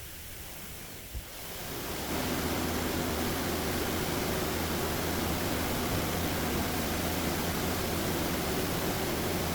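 Touchless automatic car wash spraying the car: after a small click about a second in, a steady hiss of spray with a low hum beneath it swells up and holds.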